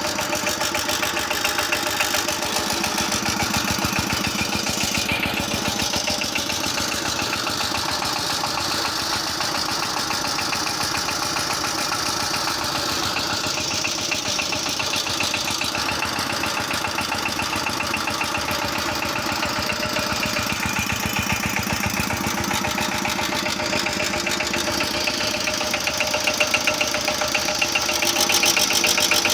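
Small diesel engine running steadily with a rapid, even knocking beat, getting a little louder near the end.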